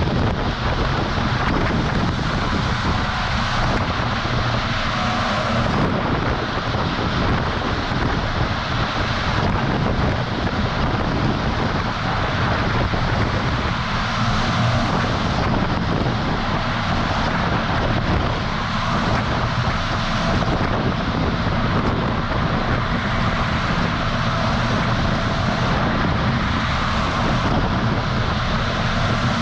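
Steady rush of wind and road noise over the low drone of a semi-truck's engine, heard from a camera mounted on the outside of the moving truck.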